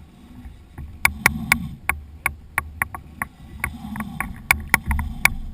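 Sharp knocks and clicks of gear on a kayak on the water, roughly three a second and irregular, over a low rumble of wind and water.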